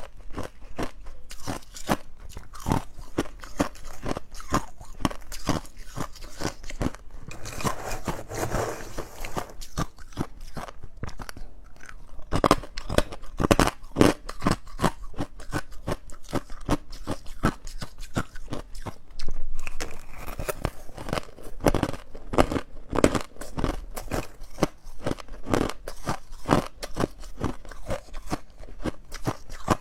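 Close-up crunching of ice being bitten and chewed: a rapid, irregular run of sharp cracks and crackles, several a second, with a few louder bites along the way.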